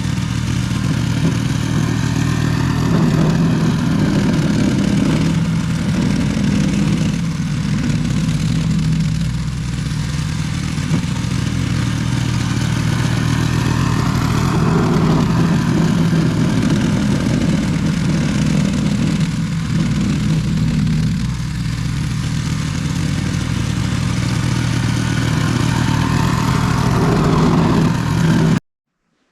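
Small gasoline snowblower engine running steadily, its note wavering a little as it works. It stops abruptly near the end.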